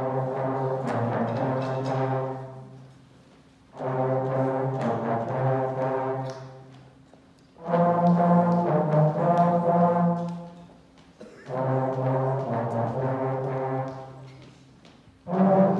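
Sixth-grade concert band playing slow, held phrases led by brass: four long chords of about three seconds each, with short breaks between them, and a fifth starting just before the end.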